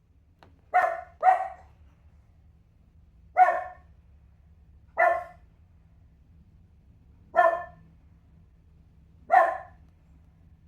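A dog barking six times: a quick double bark, then four single barks about two seconds apart.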